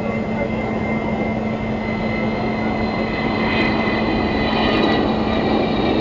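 Avro Vulcan bomber's four Rolls-Royce Bristol Olympus turbojets running, the jet noise growing gradually louder as the aircraft approaches on a low pass. A steady high whine sits over the rumble.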